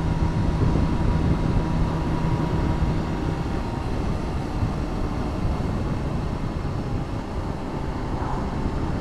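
Motorcycle on the move: engine running with steady wind and road rush on the rider's microphone. A steady engine note fades about three and a half seconds in, leaving mostly the rush.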